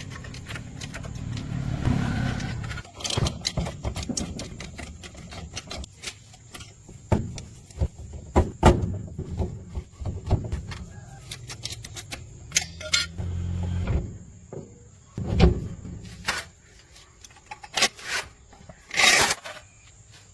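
Irregular knocks, clicks and clatter of hands-on repair work: many sharp hits spaced unevenly, with a short low hum in the second half.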